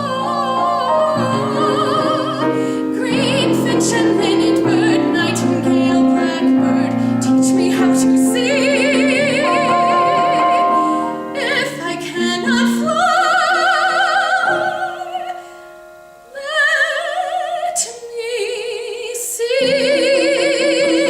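Female solo voice singing a musical-theatre song in a classical style with piano accompaniment, long held notes with a wide vibrato. The singing and piano fall away briefly about three-quarters of the way through, then the voice comes back in.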